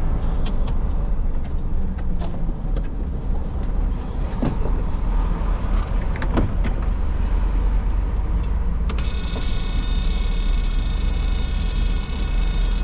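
Truck running, with a heavy low rumble and scattered knocks and rattles. A steady high-pitched whine joins about nine seconds in.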